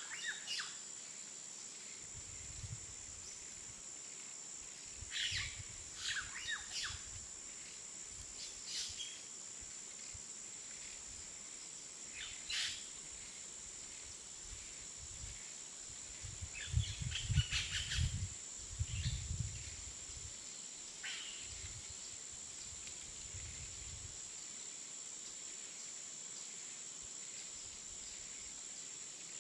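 Outdoor ambience: scattered bird chirps, a few short ones at a time, over a steady hiss with a thin high whine. Low rumbles come and go underneath, strongest around the middle.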